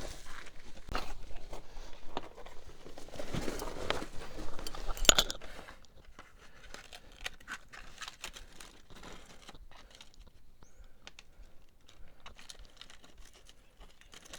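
Hands rummaging through replacement seals and their packaging, with crinkling, small clicks and a sharp crackle about five seconds in. After that only faint light clicks are left as the seals are compared.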